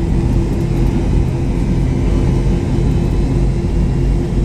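Steady engine rumble and hum inside the cabin of a McDonnell Douglas MD-83, from its tail-mounted Pratt & Whitney JT8D turbofans, heard from a rear seat.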